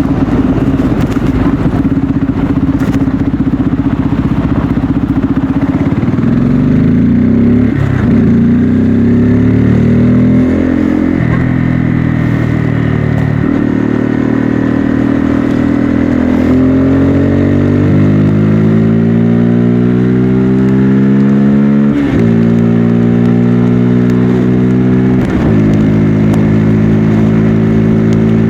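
Bajaj Pulsar N250's 249 cc single-cylinder engine and exhaust under way, pulling through the gears. The note climbs in pitch and then drops at each of about six gear changes, with one long climb before the last few.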